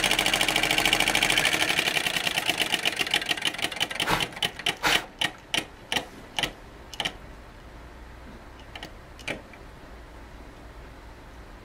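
James Maiwald flame eater (vacuum) model engine clattering rapidly, then slowing down, its strokes turning into separate clacks spaced further and further apart until it stops about seven seconds in. Two faint clicks follow a couple of seconds later.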